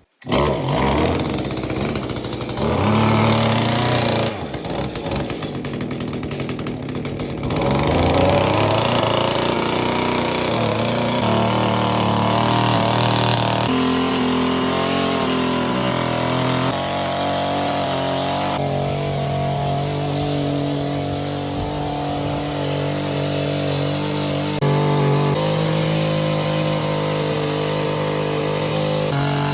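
Rototiller's small engine running under load as its tines turn over the soil. Its pitch steps up and down several times as the load changes.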